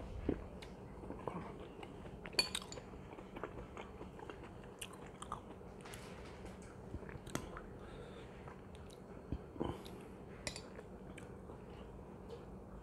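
A person quietly chewing spoonfuls of chicken biryani, with scattered small clicks and smacks of the mouth.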